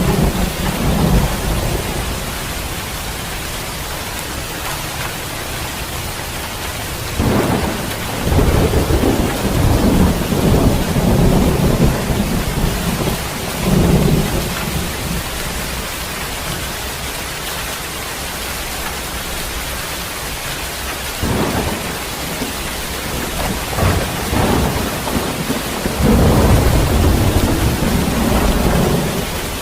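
Heavy rain falling steadily through a thunderstorm, with rolling peals of thunder. One peal breaks in suddenly about a quarter of the way through and rumbles on for several seconds, and more rumbles build near the end.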